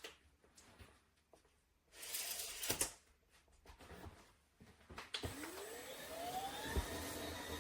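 Cordless electric spin mop's motors switching on about five seconds in, a whine rising in pitch as they spin up, then running steadily. Before that come a few light handling knocks and a brief noisy burst.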